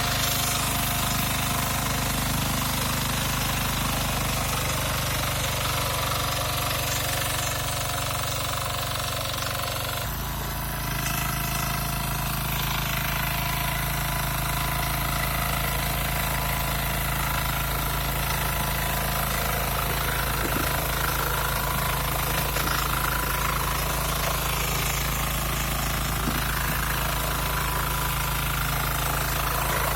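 KisanKraft KK-IC-400E tiller's engine running steadily while ploughing; its note changes about ten seconds in, after a brief dip in level, then holds steady again.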